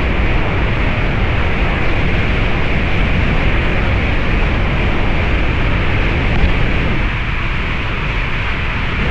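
Steady loud rushing of water flowing through the canyon stream bed, a dense even noise, easing slightly about seven seconds in.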